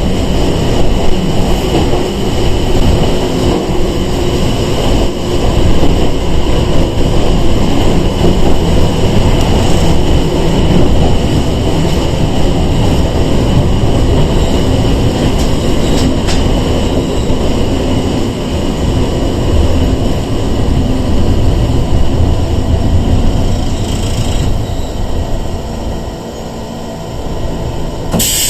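Running noise heard inside a Sangi Railway 101-series electric train (ex-Seibu 401 series) on the move: a steady rumble of wheels on rail with a steady whine. There is one sharp click about halfway through, and the noise eases off briefly near the end.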